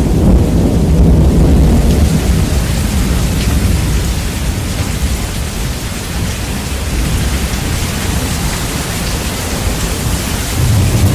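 Heavy rain with thunder, bass-boosted: a deep rumble in the first couple of seconds fades away, then builds again near the end over a steady rain hiss.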